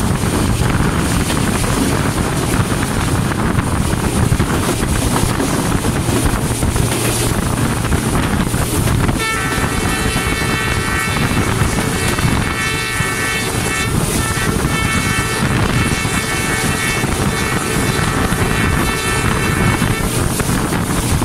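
Passenger train running at speed, heard from an open door beside the coaches: a steady rumble of the train with heavy wind on the microphone. About nine seconds in, a high-pitched steady tone of several pitches joins and holds for roughly ten seconds, with a couple of brief breaks.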